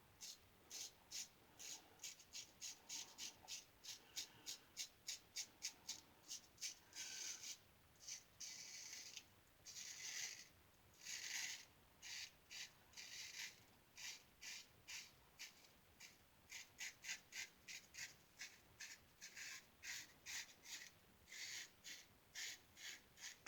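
A 1914 Ever Ready single-edge safety razor scraping through lathered stubble in quick short strokes, about two to three a second, with a few longer strokes around the middle.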